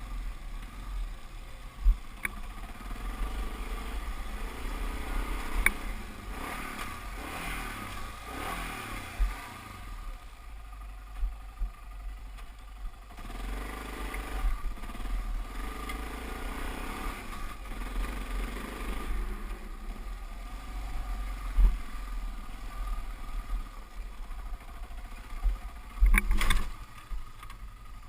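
Dirt bike engine running on a trail ride, its pitch rising and falling as the throttle is opened and closed, easing off about ten seconds in before picking up again. A few sharp knocks stand out, the loudest near the end.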